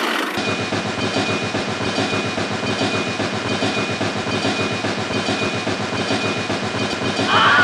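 Small motor running with a rapid, steady chatter and a faint constant high whine.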